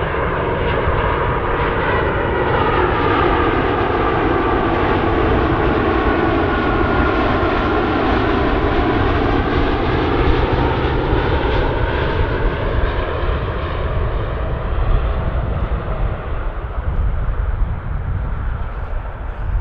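Jet airliner's engines passing low overhead on landing approach: a continuous loud rush with a sweeping, phasing tone that dips and rises as the aircraft goes by, easing off slightly near the end.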